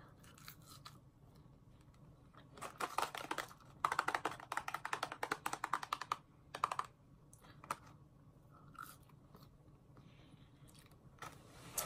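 Chewing of McDonald's french fries: wet mouth clicks and soft crunching, coming in dense runs from about two and a half to five seconds in, then a few scattered clicks.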